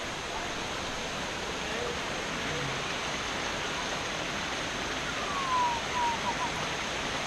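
Steady rush of a waterfall. About five seconds in, a short falling whistle-like note sounds, followed by a couple of brief chirps.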